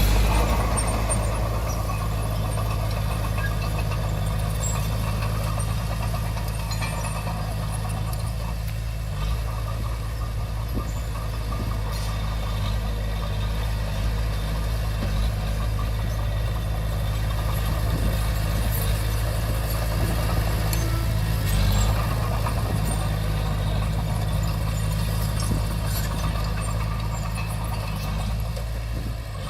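Komatsu D20P bulldozer's diesel engine running steadily, with a few light clanks and knocks here and there.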